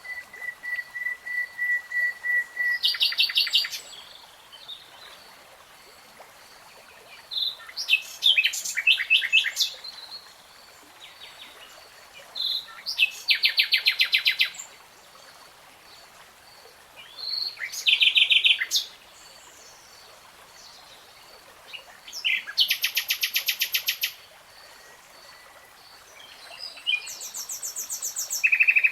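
A songbird singing in separate phrases of rapid repeated notes, one phrase every four to five seconds, over a faint steady hiss.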